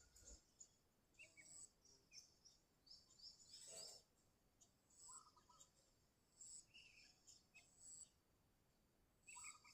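Sooty-headed bulbuls (kutilang) giving faint, scattered short chirps and calls, with a slightly lower, fuller call about five seconds in and again near the end.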